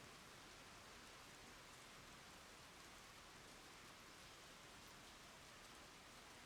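Faint, steady rain falling on the ground and a water surface: an even soft hiss with scattered tiny drop ticks.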